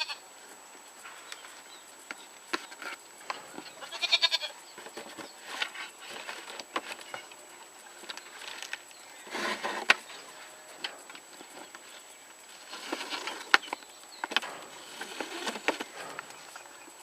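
Crackling and rustling of wrapping being pulled off a bird's shipping box, with a short animal call about four seconds in.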